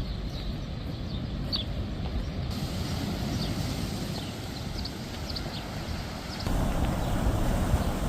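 Low rumbling outdoor noise, like wind on the microphone, with short high chirps of small birds over it. The background changes abruptly twice, about a third of the way in and again near the end.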